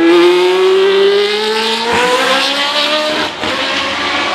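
Racing car engine accelerating hard, its pitch rising steadily for about three seconds, then dropping briefly at an upshift before pulling again.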